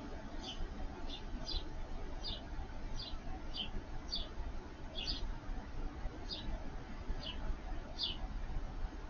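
A bird giving a steady series of short, high, downward-slurred chirps, about one or two a second.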